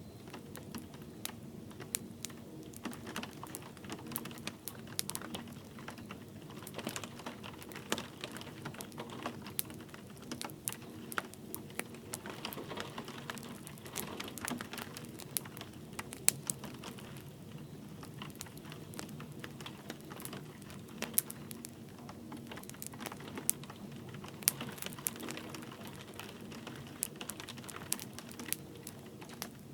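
Wood fire crackling with irregular sharp pops and snaps over a soft steady rush of light rain.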